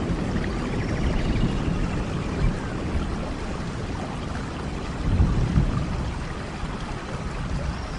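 Steady rain falling, with a low rumble beneath it that swells briefly about five seconds in.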